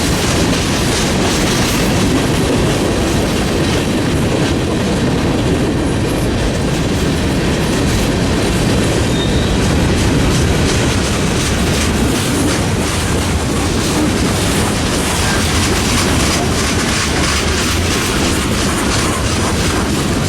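Freight train cars rolling past steadily, wheels clicking over the rail joints.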